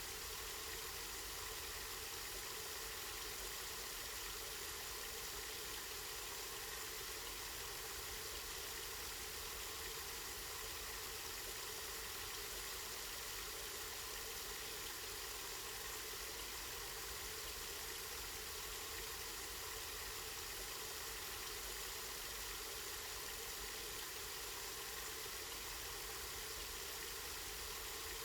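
Spring water running and splashing steadily, an even wash of sound, with a low steady rumble underneath.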